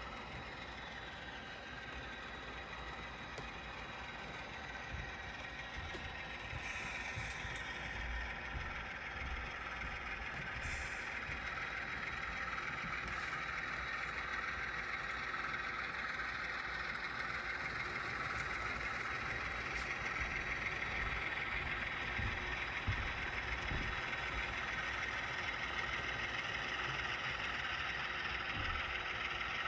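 HO-scale model train running with a steady mechanical noise that grows gradually louder, with a few steady tones running through it.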